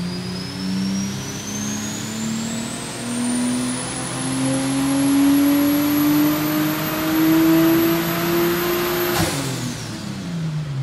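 Turbocharged RB25DET straight-six of an R33 Nissan Skyline GTS-t on a rolling-road dyno pull. The engine climbs steadily through the revs under load with a high whine rising with it. About nine seconds in the throttle is lifted sharply, and the revs fall away.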